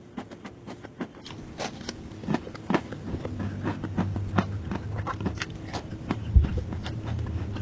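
Close-miked eating sounds: a person chewing a lettuce wrap, with many small irregular wet clicks and crunches, over a low steady hum.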